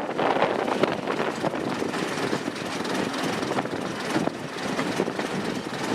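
Diesel train engine running steadily, with scattered short clicks and knocks over the drone.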